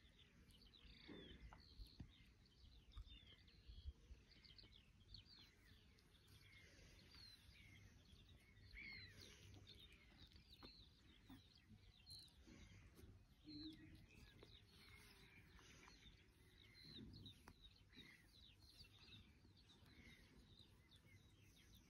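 Near silence, with faint birdsong: many short chirps and calls scattered through.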